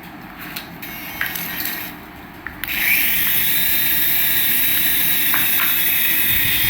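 Faint rustling with a few clicks, then about two and a half seconds in a small electric motor starts and runs with a steady high whine.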